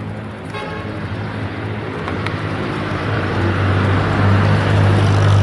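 Motor vehicle engine hum and tyre noise growing louder as a car approaches along the road, loudest near the end.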